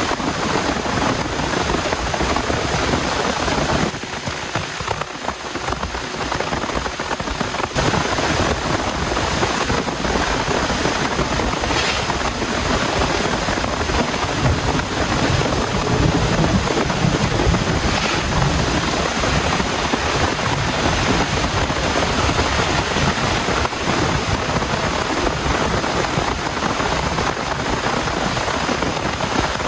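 Heavy rain pouring steadily, a dense hiss. It eases a little about four seconds in and comes back up a few seconds later.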